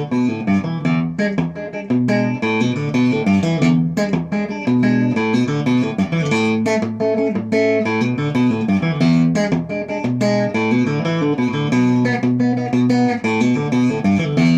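Instrumental guitar intro: a steady run of picked guitar notes with a bass line beneath.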